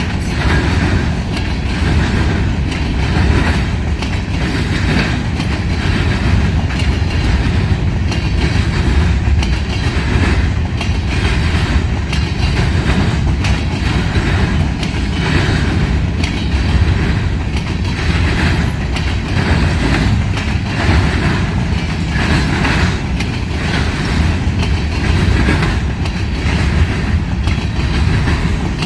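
Freight train cars rolling steadily past at close range, with the repeated clickety-clack of wheels over rail joints above a continuous low rumble.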